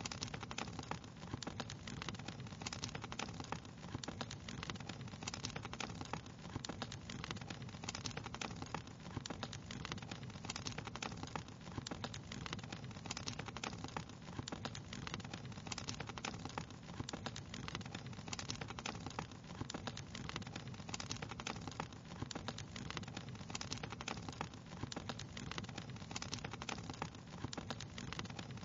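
Wood fire crackling steadily, with many small irregular pops and snaps over a low, even rush.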